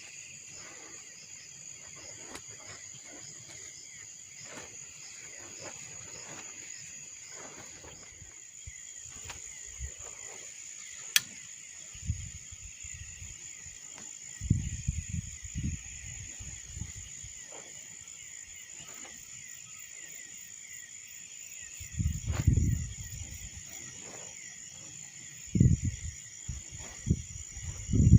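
Crickets chirping steadily in a high, pulsing chorus, with strong wind gusting in low rumbling blasts on the microphone several times in the second half.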